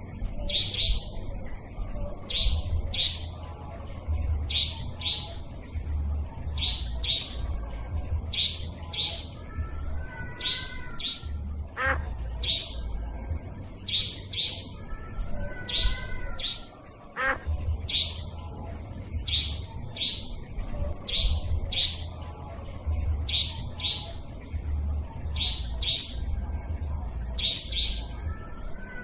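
Nightjar calling over and over, a lure recording of short, sharp, high notes given in pairs about every one to two seconds, over a low rumble.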